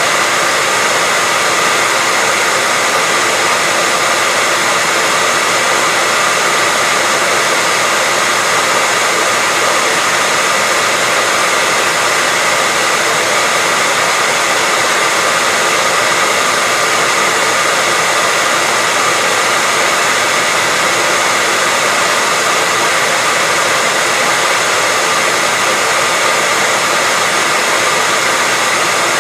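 Hair dryer running steadily, an even loud rush of air with a faint steady whine from its fan motor.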